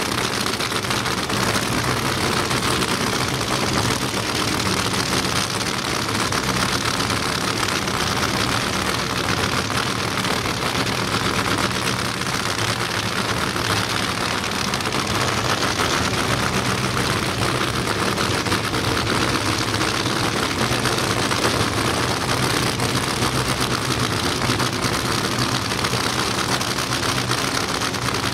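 Funny car engines idling steadily, a loud, even mechanical sound with no revving.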